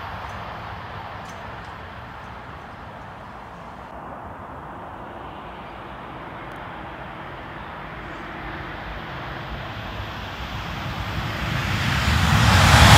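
Eurostar high-speed trains running at speed on the line. The rush of one train fades away early on, and after a quieter stretch the noise of the next train swells over the last two seconds as it approaches.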